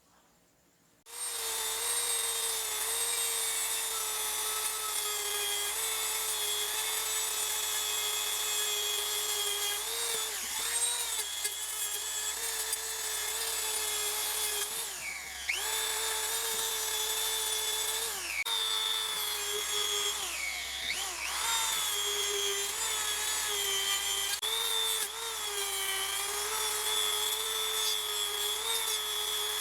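Small handheld power tool motor, like a mini drill or rotary tool, running with a steady high whine. It starts about a second in, and its pitch sags briefly several times, most deeply around the middle.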